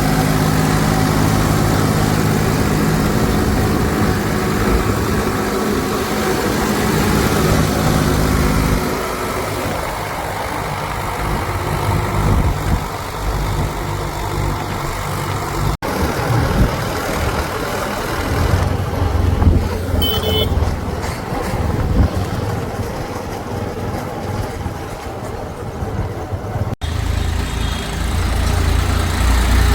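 Diesel engines of a backhoe loader and tractors running. A steady engine note holds for the first nine seconds, then gives way to a rougher, varying rumble, broken by two abrupt cuts.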